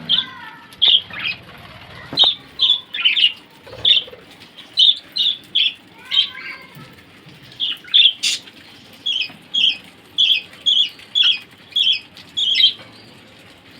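Australian parrots chirping: short, sharp, high calls repeated about twice a second, with a couple of brief warbling phrases mixed in.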